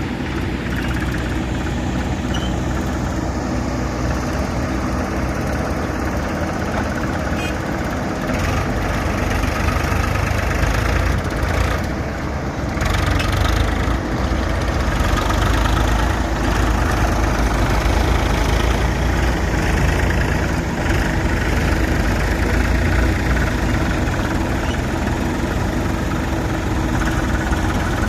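JCB 3DX Super backhoe loader's diesel engine running steadily, growing louder and heavier from about nine seconds in.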